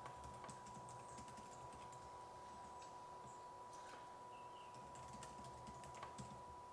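Faint typing on a computer keyboard: light, irregular key clicks, with a thin steady tone underneath.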